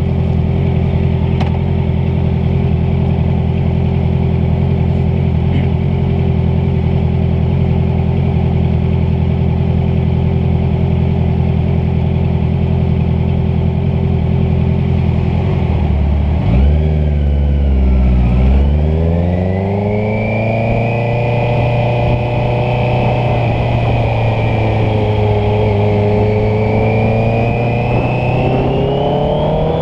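Honda CBR650F motorcycle's inline-four engine running steadily at cruising speed. About halfway through the revs drop sharply, then climb again and keep rising toward the end as the bike accelerates. Wind noise throughout.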